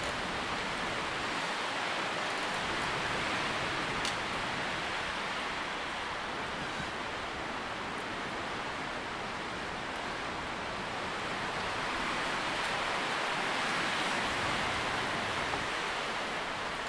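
Wind moving through tree leaves: a steady rustling hiss that swells and eases slowly.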